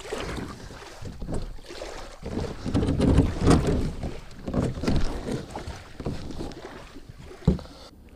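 Gusty wind buffeting the chest-mounted camera's microphone on a kayak on the water, in uneven rushes that are loudest midway. A single sharp thump sounds near the end.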